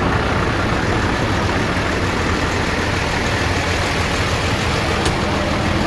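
Heavy diesel truck engine running steadily, a low hum under an even rushing noise, with one short click about five seconds in.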